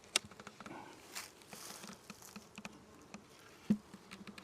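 Honeybees buzzing as a faint steady hum, with scattered light clicks and one sharper knock a little before the end.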